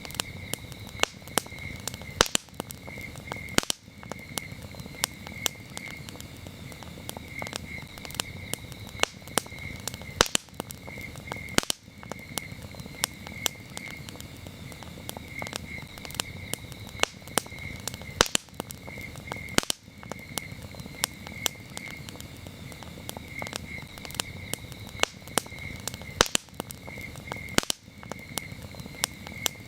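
Wood campfire crackling, with frequent sharp pops of varied loudness over a soft low rush, while crickets chirp steadily in quick pulsing trills underneath.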